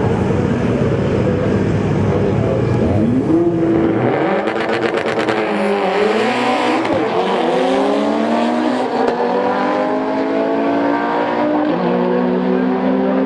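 A turbocharged four-cylinder Mitsubishi Lancer Evolution drag car at full power on the strip. The engine holds a steady note for about three seconds, then its pitch climbs, drops back and climbs again several times as it accelerates through the gears.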